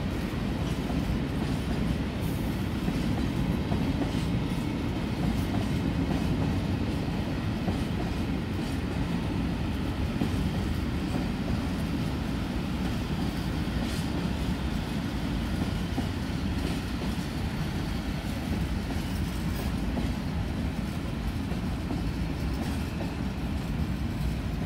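Open freight wagons of a long freight train rolling past, their wheels making a steady rumble with clatter on the rails.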